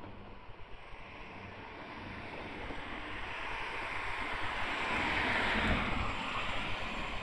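ET127 series electric multiple unit approaching, its rushing running noise of wheels on rail swelling over several seconds to a peak about five seconds in, then easing a little.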